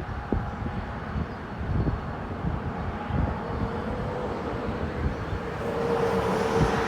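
Diesel freight locomotives running, with a steady whine that grows louder over the last few seconds, and wind buffeting the microphone.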